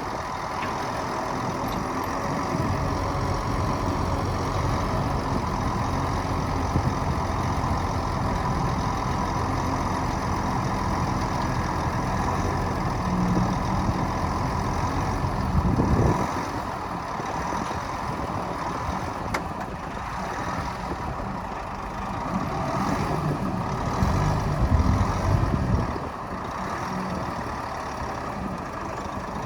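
Heavy diesel earthmoving machinery (bulldozer and dump truck engines) running with a steady drone. There is a brief loud jolt about 16 s in, and the engine works harder from about 24 s before easing off sharply near 26 s.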